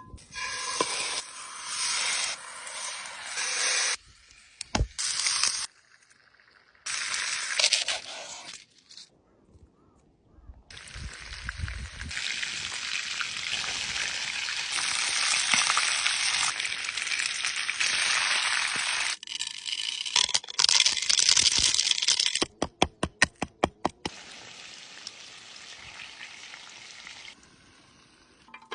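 Chicken sizzling in hot oil in a series of short, cut-together clips, each starting and stopping abruptly. About three quarters of the way through there is a quick run of sharp knocks, about eight a second.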